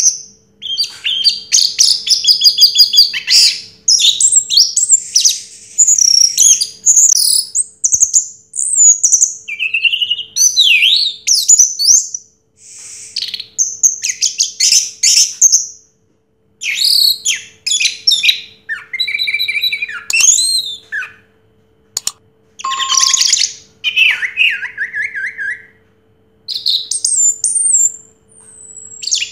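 Orange-headed thrush (anis merah) singing a loud, varied song of whistled phrases, sweeping notes and fast trills, delivered in bursts of a second or two with short pauses between.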